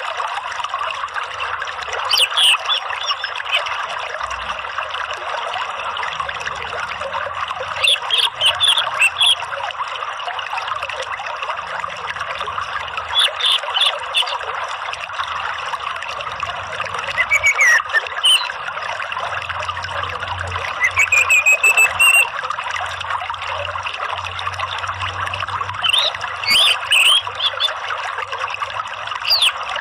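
Steady trickling running water with short bursts of high songbird chirps every few seconds, among them a falling note and a rising whistle. A water-and-birdsong therapy track for stimulating a caged orange-headed thrush to sing.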